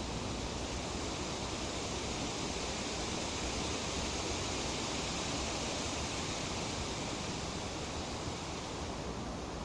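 Wind rustling through tree leaves: a steady, even rustle that swells slightly in the middle.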